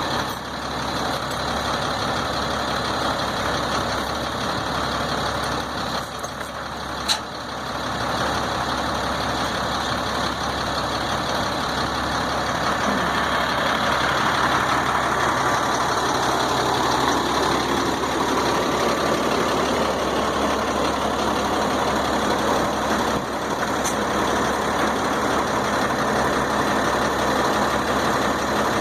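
A heavy engine running steadily at idle, with one sharp clank about a quarter of the way in.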